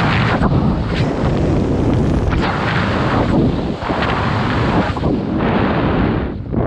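Loud wind buffeting the microphone, a heavy rumbling roar that surges and dips unevenly.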